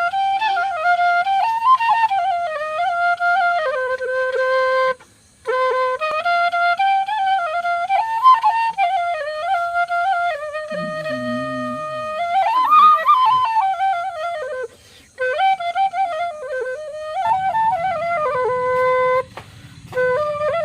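Bamboo flute playing a slow solo melody in phrases that rise and fall, with brief pauses between them.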